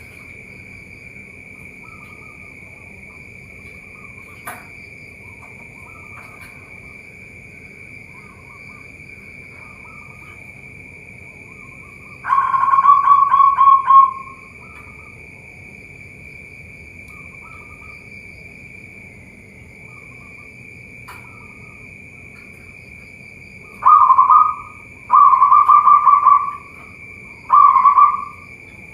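Zebra doves (perkutut) cooing: one loud coo about twelve seconds in and three more near the end, each a quick run of rapid trilled notes. Fainter dove calls come in between, over a steady high insect drone.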